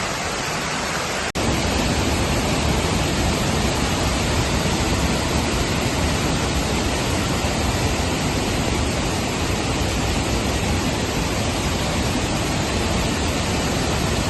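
Falling water rushing in a steady, even hiss. About a second in it cuts out for an instant and returns a little louder, with more low rumble.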